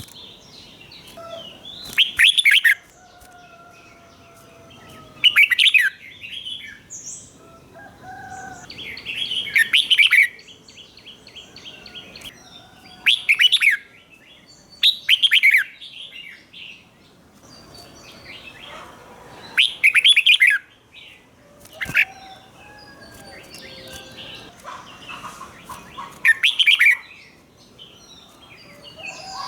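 Red-whiskered bulbul singing: short, loud, warbling phrases about every three to four seconds, roughly eight in all, with softer chirps and calls between them. It is the doubled-phrase song ("เบิ้ล") that Thai bulbul keepers prize and play for young birds to copy.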